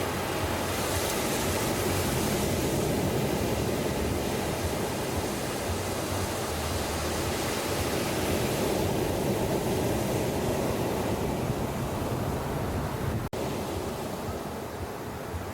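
Ocean surf: a steady wash of breaking waves, swelling in hiss now and then as waves break and run up the shore. The sound cuts out for an instant near the end and carries on a little quieter.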